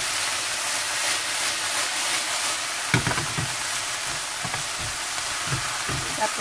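Dried pollock strips and shishito peppers sizzling in a soy-sauce glaze in a nonstick frying pan while a silicone spatula stirs them. The spatula knocks softly against the pan about halfway and a few times near the end.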